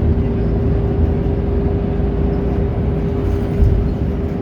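Scania K230UB city bus running along with its diesel engine humming steadily and a constant whine over it. A short thump about three and a half seconds in.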